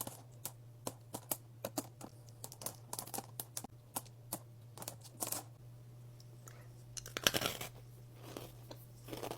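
Crisp air-dried candy being bitten and chewed close to the microphone: irregular sharp crunches and crackles, with a longer run of crackling about seven seconds in.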